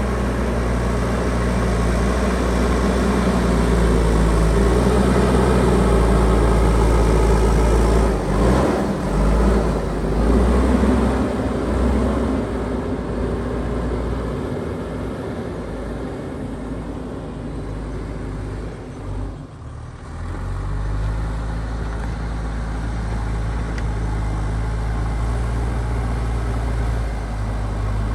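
JCB backhoe loader's diesel engine working, its load and revs rising and falling for the first dozen seconds. It drops briefly about twenty seconds in, then runs steadily.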